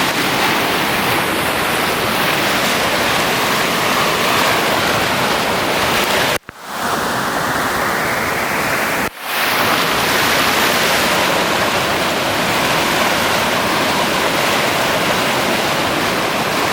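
Creek in flood, running high and fast: a loud, steady rush of water. It drops out sharply twice, briefly, about six and nine seconds in.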